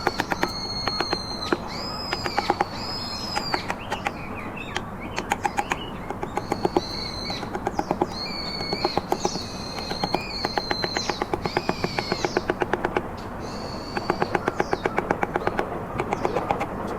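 Carving mallet tapping a chisel into trembesi wood in quick runs of sharp taps, about five to eight a second, with short pauses between the runs. A bird calls repeatedly in high, arching whistled notes.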